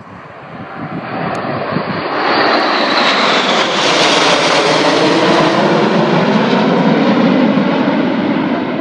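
Aircraft flying past at an airshow, its engine roar building up over the first couple of seconds and staying loud, with a high whine that falls in pitch as it passes.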